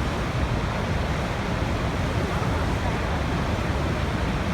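Waterfall rushing: a steady, unbroken roar of falling water, heaviest in the low range.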